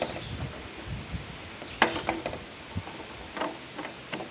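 Metal roofing panel being cut through its rib: a few sharp metallic clicks and scrapes, the loudest about two seconds in, with rustling handling in between.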